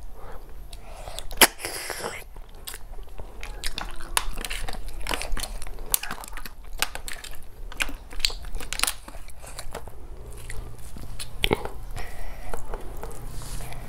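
Close-miked eating sounds of a meal of snail curry with rice and cucumber salad: irregular chewing and biting, with many sharp clicks and crunches.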